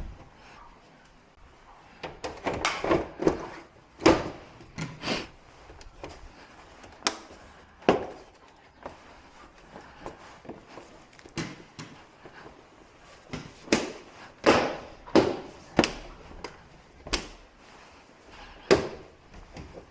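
Irregular plastic clicks, snaps and knocks, some sharp and loud, as the back cover of a Samsung 43-inch TV is pressed and clipped back into place after a speaker replacement.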